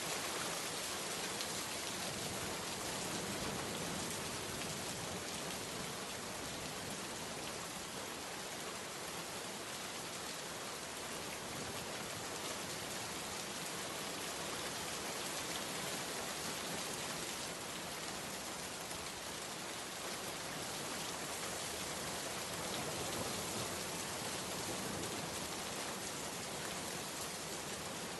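Steady heavy rain pouring down and pattering on surfaces, a dense even hiss with fine drop sounds and no change in strength.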